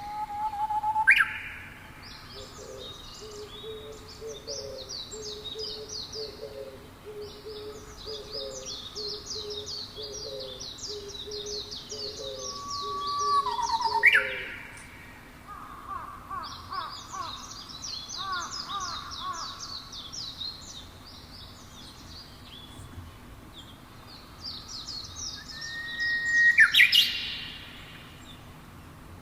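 Several wild birds singing together: high, rapid trilled phrases over and over, a low note repeated quickly for several seconds in the first half, and a loud upward-sweeping whistle three times, about a second in, midway and near the end.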